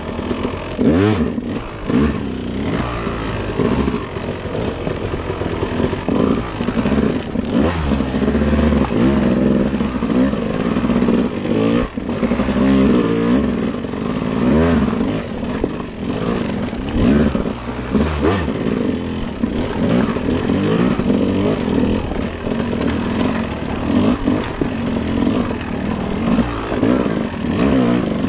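Dirt bike engine revving up and easing off over and over as it is ridden, its pitch rising and falling every second or two.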